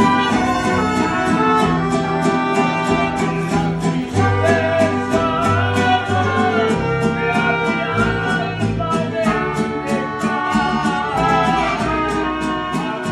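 Mariachi band playing live, with strummed guitars keeping a steady beat, low bass notes, and violins and a voice carrying the melody.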